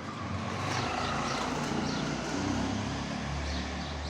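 A motor vehicle passing by, its engine and road noise swelling over the first second and fading toward the end, with birds chirping over it.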